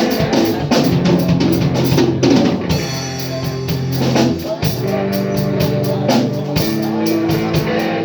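Live band playing an instrumental passage: a drum kit with busy cymbal strokes over sustained bass and guitar notes.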